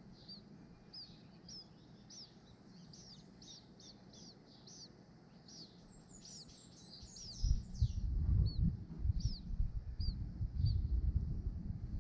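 Small birds chirping: a string of short, high, arched chirps about one or two a second, bunching into a quick flurry in the middle. About halfway through, a louder low rumbling noise comes in and stays.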